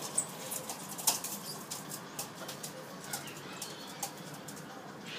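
Birds flapping their wings, with scattered sharp taps and clicks, one louder about a second in.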